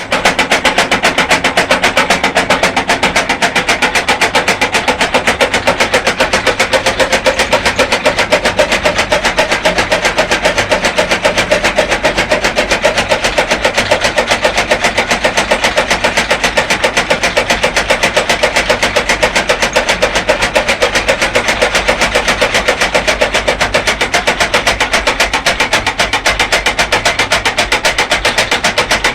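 Engine-driven fodder chaff cutter running steadily, with a fast, even thumping beat of about five a second.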